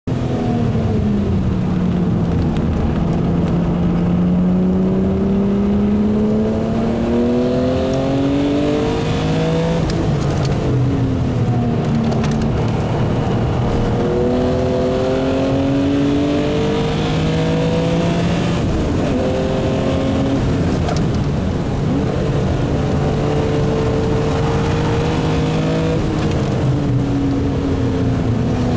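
BMW E36 M3 Evo's S50B32 3.2-litre straight-six race engine, fitted with a carbon fibre airbox and high-lift cams, running hard on track. The engine note climbs slowly through the revs and drops sharply several times as it goes through the gears and brakes for corners.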